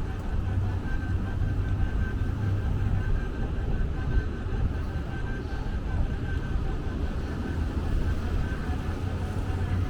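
Steady low mechanical rumble, like a running vehicle heard from inside, with a faint steady high-pitched tone on top.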